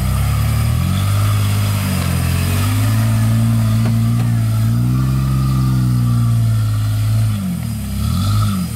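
Jeep Wrangler's engine working hard under load in deep mud, revving up in the first couple of seconds and holding high revs, then a few quick throttle blips as the revs drop near the end.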